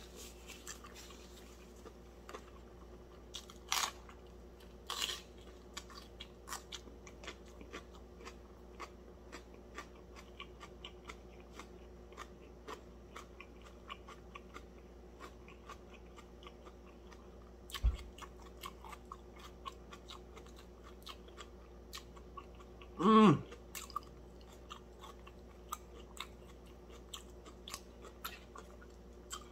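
Close-up chewing of crispy fried fish, with many small crunches and mouth clicks. A dull thump just past halfway, and about three quarters through a short voiced sound falling in pitch, the loudest moment.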